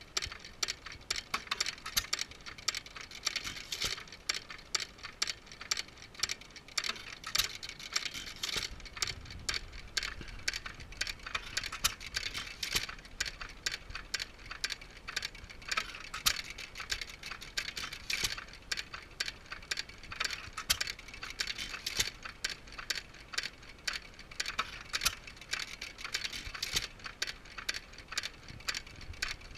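Majestic and Waterloo antique hit-and-miss engines running, a dense, continuous clatter of small ticks and clicks.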